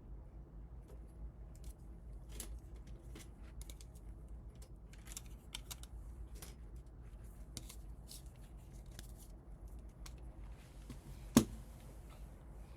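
Scattered small clicks and rustles of objects being handled, with one sharp, louder click near the end.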